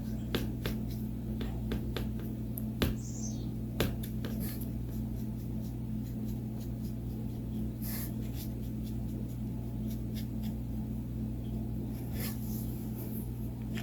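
Light scratching and small clicks and taps of a marker colouring cotton balls, with a few louder taps now and then, over a steady low hum.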